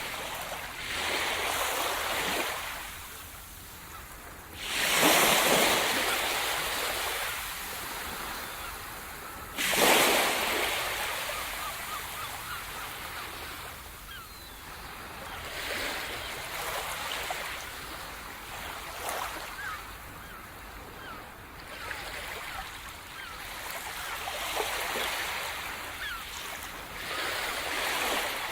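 Sea surf: waves breaking on the shore in slow surges, the two loudest about five and ten seconds in, followed by softer washes.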